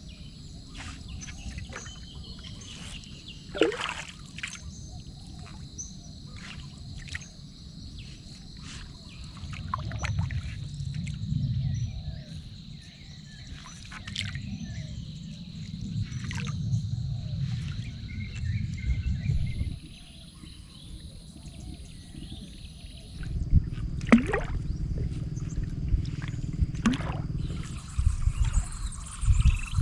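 Outdoor evening ambience by water: a steady high-pitched insect call, with scattered clicks and knocks and low rumbling swells of sloshing water and handling noise.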